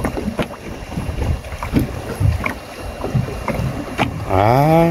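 Irregular slaps and knocks of water against a small fishing boat's hull, with wind on the microphone; a man's drawn-out rising "ah" near the end.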